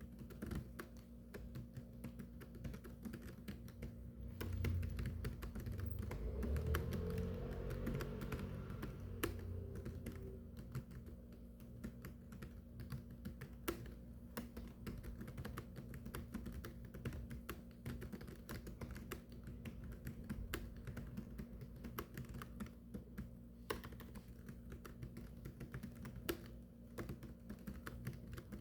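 Continuous fast typing on a keyboard, a dense run of key clicks. A low rumble joins in from about four seconds to about ten seconds in.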